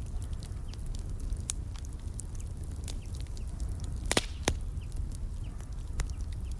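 Wood fire crackling: scattered sharp pops and snaps over a steady low rumble, with two louder pops about four seconds in.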